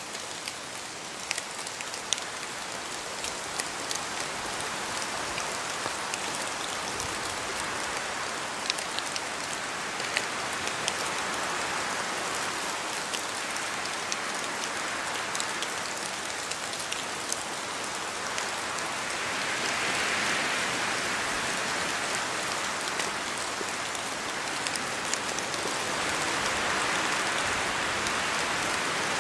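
Steady rain falling in a forest, an even hiss with many single drops ticking close by. The rush of rain grows louder twice in the second half, about two-thirds of the way in and again near the end.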